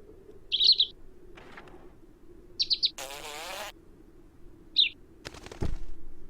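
A small bird chirps in three short high bursts. Between the second and third chirps comes a brief rasping buzz, and a couple of clicks and a soft thump fall near the end.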